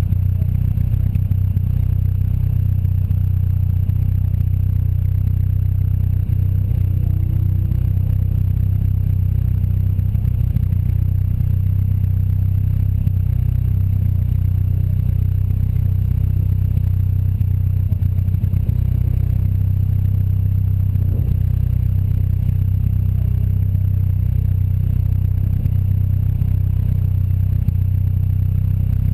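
Engine of an open-cockpit, Seven-style sports car idling steadily while the car sits still, a low even drone.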